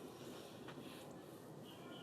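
Faint outdoor background noise with a single soft click about a third of the way in; near the end a faint high bird call begins.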